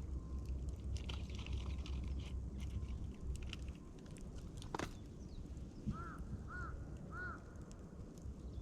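Wood campfire crackling, with irregular sharp snaps over a low rumble. A bird calls three short rising-and-falling notes about six seconds in.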